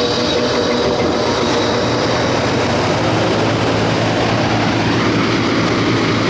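Central air conditioner's outdoor condensing unit running, a steady hum from the compressor under the fan and airflow noise.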